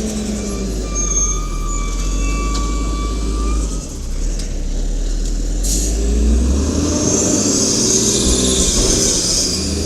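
A Cummins L10G natural-gas engine in a 1994 WhiteGMC garbage truck running under load. Its pitch rises and wavers over the last few seconds as it revs. A thin whine is heard during the first few seconds, and a short hiss about six seconds in.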